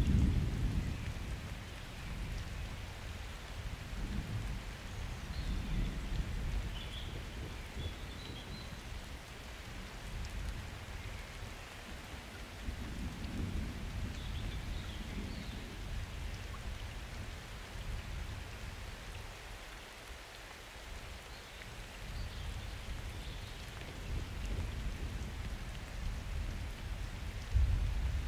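Summer thunderstorm: steady rain with thunder rumbling in several slow swells, loudest at the start and again near the end.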